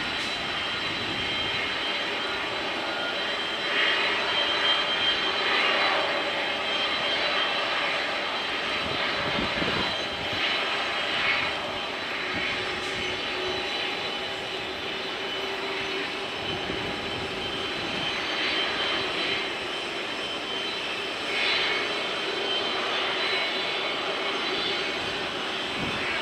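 Jet airliner engines of a Boeing 747-409F freighter running steadily during pushback: a continuous rush with a steady high whine over it, swelling briefly now and then.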